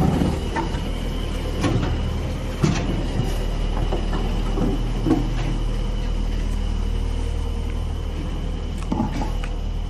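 A steady low mechanical hum with a faint high whine, broken by scattered short knocks and clicks.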